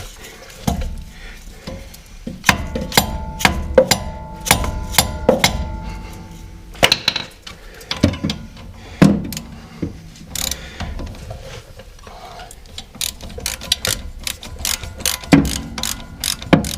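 Ratchet wrench clicking in bursts as a brake caliper bolt is turned in through its new rubber sleeve, with metallic clinks and knocks from the tools and caliper.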